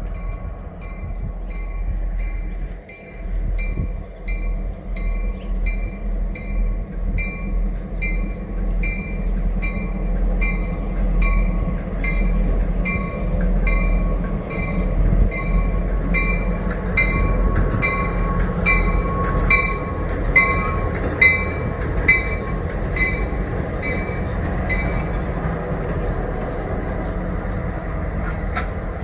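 A train rolling past with a steady low rumble, while a bell rings about twice a second and stops a few seconds before the end. Wheels click sharply over rail joints in the middle stretch, loudest just after the middle.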